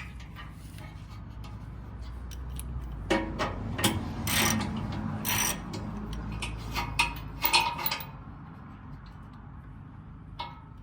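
A 15 mm ratchet clicking in irregular short runs as the skid plate bolts are loosened, for about eight seconds, then mostly stopping.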